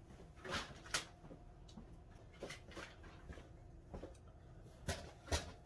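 Faint, scattered clicks, taps and light knocks of small objects being handled and set down, with a soft rustle about half a second in.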